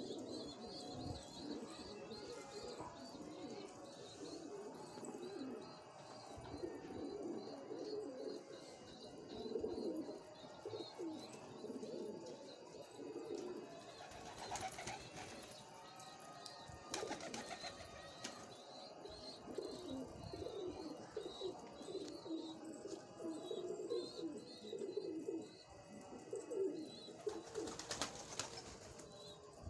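Several domestic pigeons cooing continuously and overlapping, with a thin, high, repeated chirping behind them and a few brief scuffing noises.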